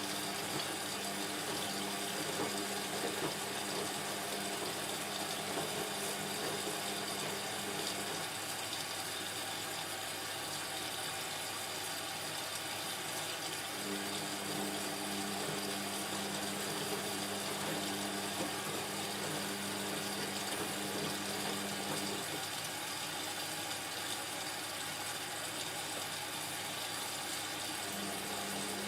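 Indesit washing machine mid-wash: the drum motor hums as it turns the load for about eight seconds, pauses for several seconds, turns again, pauses, and starts once more near the end, over a steady noise of water in the drum.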